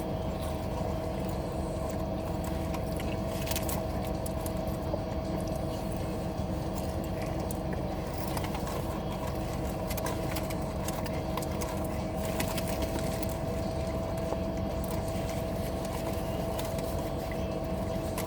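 Steady rumble and hum inside a car, with one constant whining tone held throughout.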